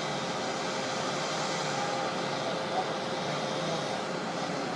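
Steady engine noise of the tree-removal machinery running at a distance, with a constant hum.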